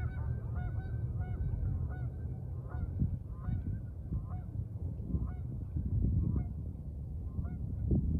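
A flock of geese honking, many short calls overlapping and repeating irregularly, over a steady low rumble.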